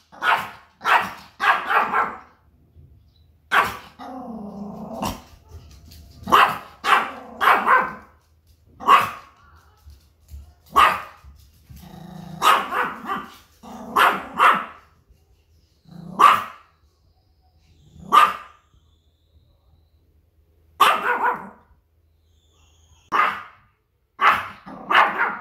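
Pomeranian spitz barking: loud, high, ringing barks, some single and some in quick runs of two or three, with pauses between. A low growl is heard between barks about four seconds in. This is alarm barking, the spitz warning at sounds from outside and guarding its territory.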